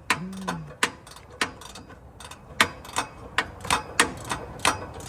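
Hand ratchet clicking as it is worked on an exhaust bolt, about three sharp clicks a second.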